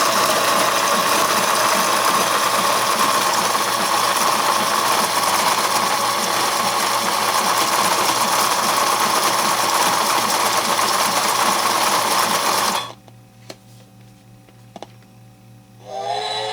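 Battery-powered New Bright G-scale toy locomotive running, a steady whirring rattle of its small gear motor and wheels, which stops abruptly about thirteen seconds in. A couple of faint clicks follow, then a pitched electronic tone starts near the end.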